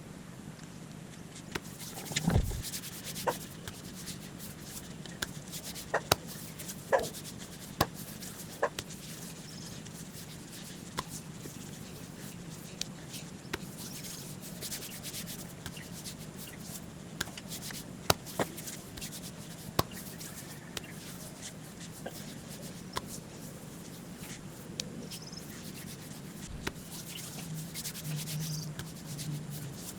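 Rubbing and wiping against a surface, with scattered light clicks and a faint steady low hum.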